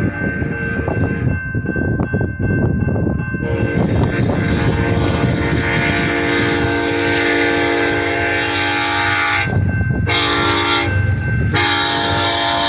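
Freight train running past with a rumble and rail noise, then a diesel locomotive's air horn sounds a long, steady chord starting about three seconds in, with short breaks near the end before it sounds again.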